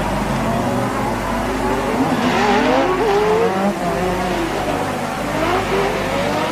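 1988 Formula One race cars at full throttle, their engine notes rising in pitch as they accelerate, with a climb about two seconds in and another near five seconds, over a steady low hum.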